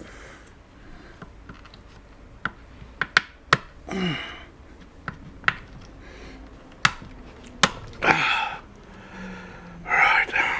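Sharp separate clicks and knocks of tools and metal parts being handled while working inside a welder, with a few short loud breaths or sniffs between them.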